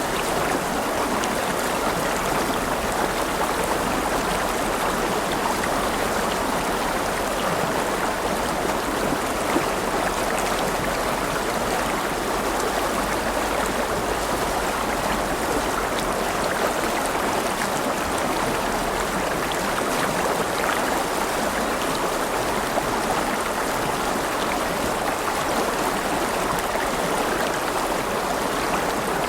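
River water flowing and splashing over stones, a steady rushing with fine bubbling.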